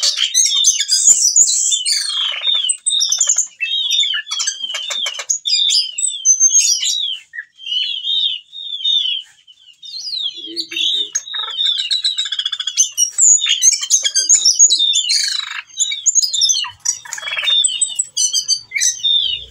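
A male ciung batu (whistling thrush) sings a fast, unbroken run of short chirps and down-slurred twittering notes, running through its repertoire of mimicked calls. It is a male in breeding condition calling for a female.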